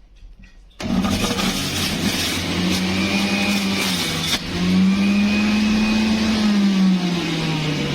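Electric juicer motor running loudly, starting abruptly about a second in. Its whine wavers in pitch and sinks lower near the end, over a hiss of grinding.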